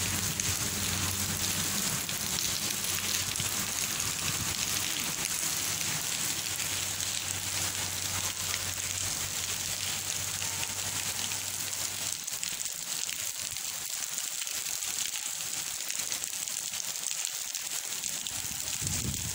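Steady rain falling on paving, an even high hiss, with a low rumble underneath that fades out about twelve seconds in.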